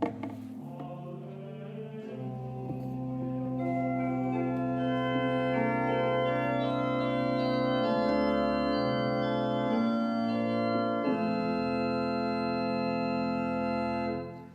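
Church organ playing slow, sustained chords that swell louder over the first few seconds and then die away shortly before the end.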